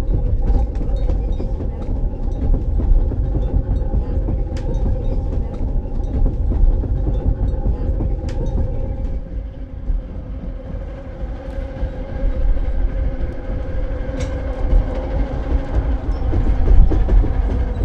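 Vintage electric rack-railway train running on its toothed rack track: a heavy low rumble with a steady hum and occasional sharp clanks.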